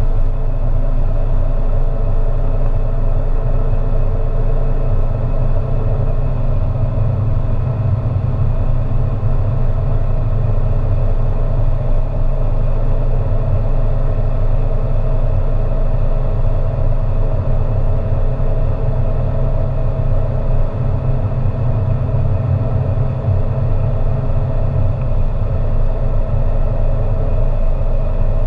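Peugeot 207 1.6 HDi four-cylinder turbodiesel and road noise droning steadily at high speed, the engine note holding one pitch without rising.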